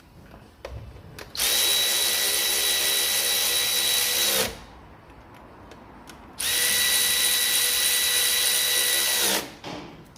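A power drill-driver running in two steady bursts of about three seconds each, with a high whine. A few light clicks come before and between the bursts.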